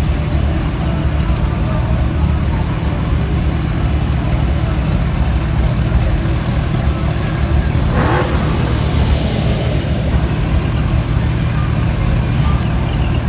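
Vehicle engines running with a deep, steady rumble, mixed with voices of people talking. About eight seconds in there is a brief rise, like an engine being revved.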